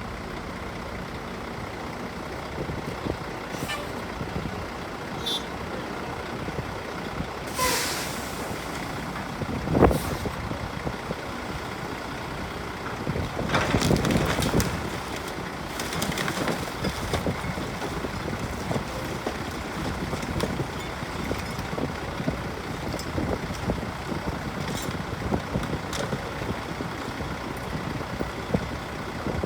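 Heavy diesel equipment running steadily while buildings are torn down. There is a sharp bang about ten seconds in, and a longer, louder crashing stretch a few seconds later.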